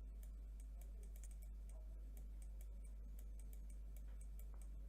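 Faint, irregular light clicking, several clicks a second, over a steady low electrical hum.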